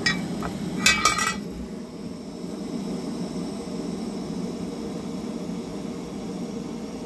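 Cookware clinking twice against the pot near the start, then the steady low bubbling hiss of a pot of soup with dumplings boiling on the stove.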